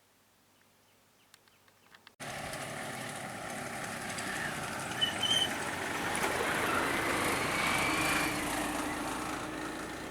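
Near silence with a few faint clicks, then, after a sudden cut about two seconds in, a steady loud rushing noise like a vehicle running, with a few short squeaks over it.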